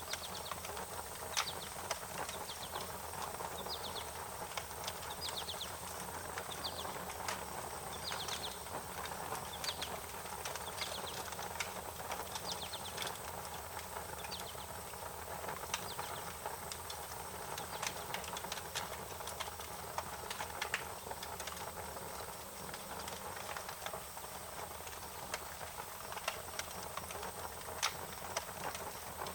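Wood fire crackling, with irregular sharp pops over a steady hiss. Short high chirps, like small birds, come in runs during the first third.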